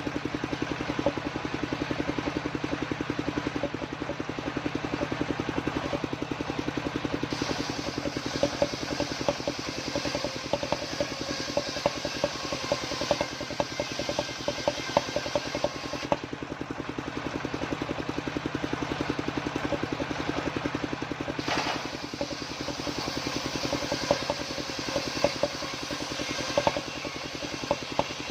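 Homemade circular saw running steadily with a fast, even pulsing drive. Its blade rips lengthwise through waru wood twice, each cut a long hiss lasting several seconds: the first starts about seven seconds in, the second about twenty-one seconds in.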